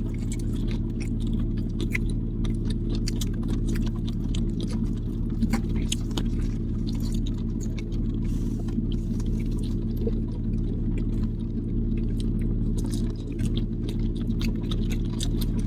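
Steady low hum of a car's engine and cabin, with many small scattered clicks and taps over it.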